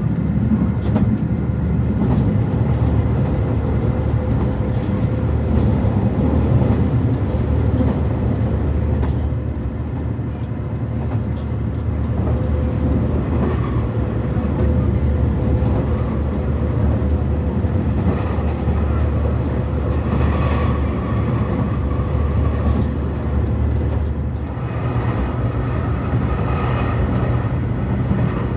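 Cabin running noise of a JR Shikoku 2700 series diesel express railcar under way: a steady low rumble of engine and wheels on the rails that eases briefly twice.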